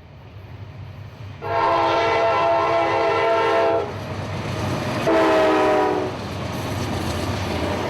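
CSX freight locomotive's air horn sounding two blasts, a long one and then a shorter one, over the steady low rumble of the approaching train.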